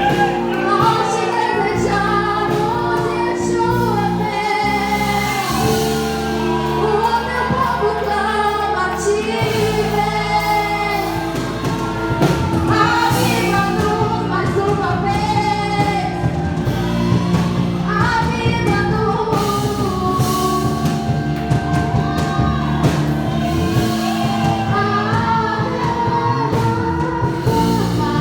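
Congregational gospel worship music: a sung praise song with voices over a band with keyboard and drums.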